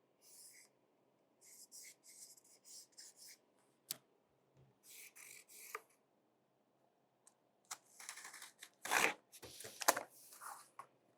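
Cardboard template being handled and fitted: intermittent rustling and scraping of the cardboard, with a single sharp click about four seconds in and louder rubbing over the last few seconds.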